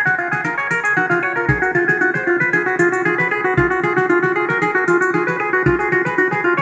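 Arturia MatrixBrute analog synthesizer playing a fast sequence of short, plucked-sounding notes, over a Roland TR-8S kick drum hitting three times, about two seconds apart, and a steady high ticking.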